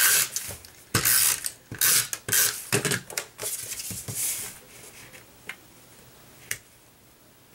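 A SNAIL tape runner laying adhesive on cardstock in about five short, rasping strokes, with a ratchet-like clicking. Then quieter paper handling, and one sharp click later on.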